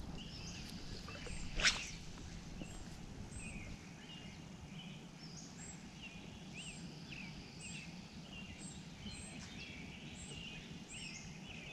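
Small birds chirping and calling around a lake, many short high notes coming again and again over a faint steady background. A single sharp click is heard about two seconds in.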